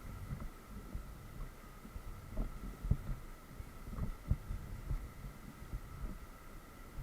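Small rowboat on a river: irregular low knocks and thuds of the oars and hull as it is rowed, over a faint steady high-pitched hum.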